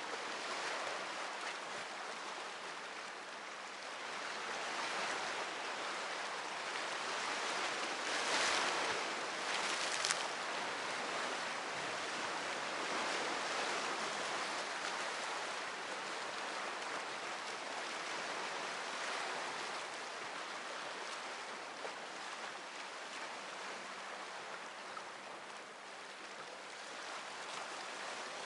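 Sea waves washing onto the shore: a steady rush that swells and ebbs, loudest about eight to ten seconds in.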